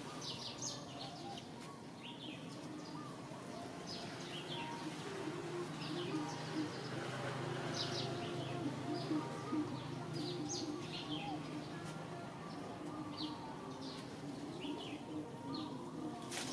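Wild birds chirping in many short, high calls scattered throughout, over a low steady hum that swells in the middle.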